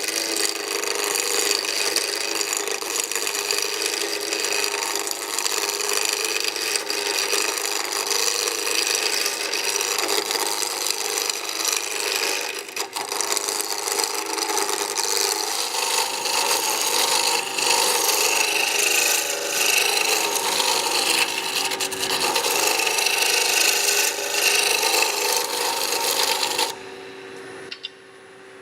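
Square wood blank spinning on a lathe while a turning tool roughs it down to round: a loud continuous cutting and scraping noise with a steady hum underneath. It stops abruptly near the end.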